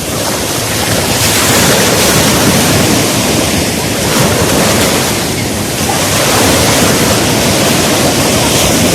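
Sea waves breaking on the beach, with wind rushing over the microphone in a loud, steady roar.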